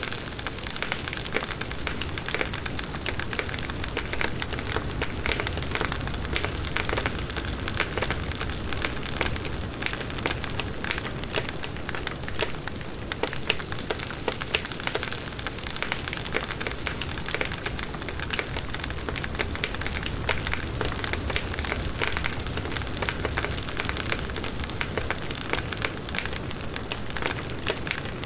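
Wood fire burning steadily, with continuous crackling and frequent small pops from the burning firewood over a low rumble.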